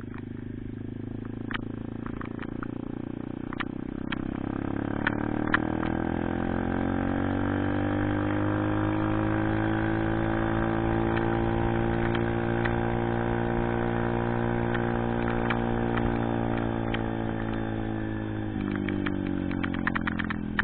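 Pit bike's small single-cylinder engine running while riding: the revs climb steadily for several seconds, hold, then slowly fall away before dropping suddenly near the end. A few scattered clicks sound near the start.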